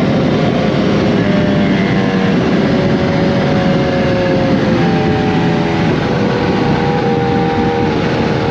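Kawasaki Z H2's supercharged inline-four running through an SC Project CRT exhaust, holding fairly steady revs with the pitch shifting a little up and down a few times, under a constant rush of wind and road noise.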